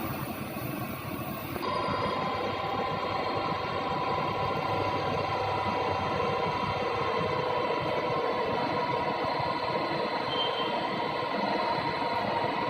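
Vertical turning lathe running: a steady machine hum with a gear whine, changing in tone about two seconds in and then holding steady.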